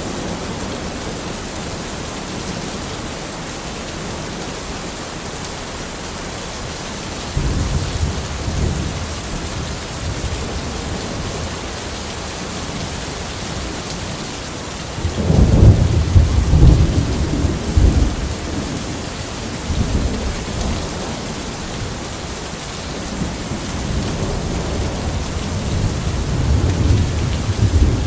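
Steady rain falling in a forest, with low rolls of thunder: one about a third of the way in, the loudest around the middle, and another building near the end.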